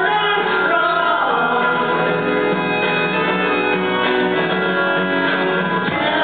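Live band playing a song on stage, instruments and singing together.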